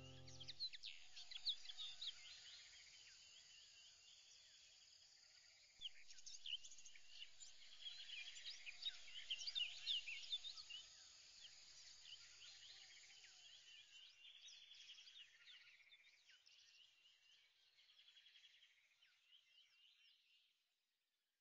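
Faint birdsong: many short chirps and whistles from several birds, busiest about a third of the way in and fading out near the end.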